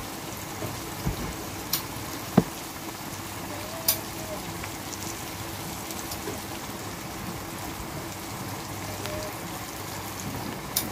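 Steady sizzle of kochur loti (taro stolons) frying in oil in a pan, with a few sharp clinks about two and four seconds in.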